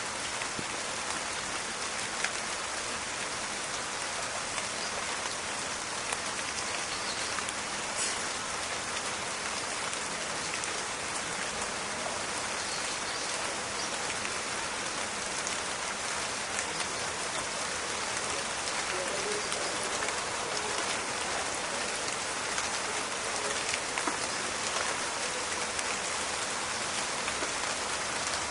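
Steady rain falling in a forest, a dense patter with scattered individual drops hitting leaves and other surfaces.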